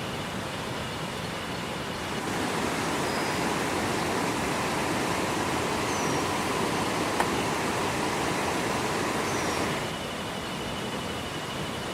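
Steady hiss of heavy rain. It grows louder about two seconds in and drops back near the end, with a faint steady high whine in the quieter stretches and two brief high chirps in the louder one.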